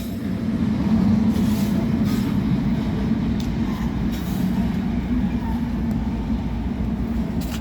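Outdoor air-conditioner condensing units running, a steady low hum of compressor and condenser fan.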